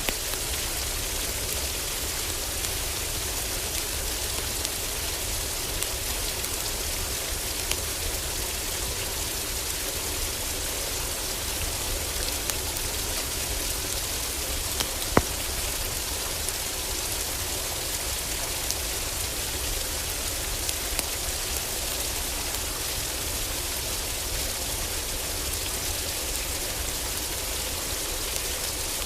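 Steady heavy rain on a roof, with scattered small crackles from a wood fire and one sharper pop about halfway through.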